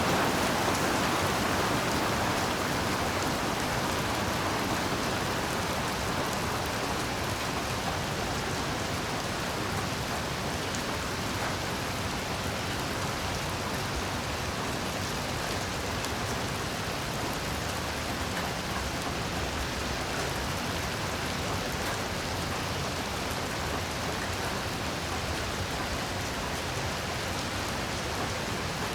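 Heavy rain falling steadily, an even hiss that eases a little over the first few seconds and then holds constant.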